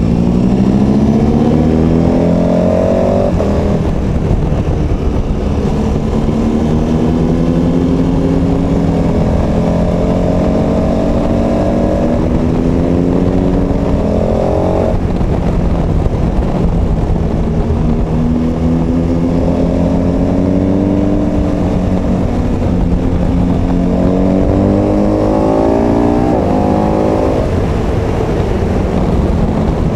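KTM 1290 Super Adventure S's V-twin engine pulling under way, its pitch rising steadily in long pulls and dropping suddenly a few times at the upshifts, with wind noise from riding.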